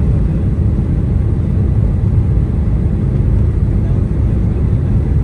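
Steady, loud rumble of a Boeing 747-400's engines and airflow heard from inside the passenger cabin.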